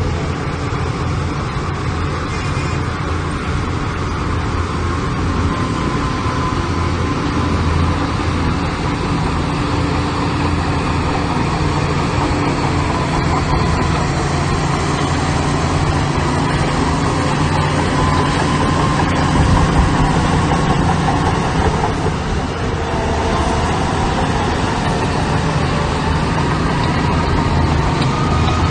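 Heavy diesel construction machinery engines running steadily, a continuous low hum with no pauses.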